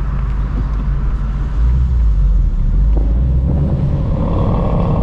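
2024 Ford Mustang GT's 5.0-litre Coyote V8 rumbling through its stock active exhaust at low speed. It gets louder about one and a half seconds in, and the engine note climbs slightly near the end.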